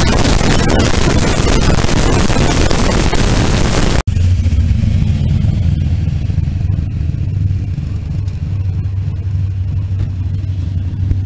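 Fuel-injected Holden 202 six-cylinder engine of a slingshot dragster, with heavy wind noise over the microphone. About four seconds in the sound cuts abruptly, and from then on the engine runs as a steadier, lower drone.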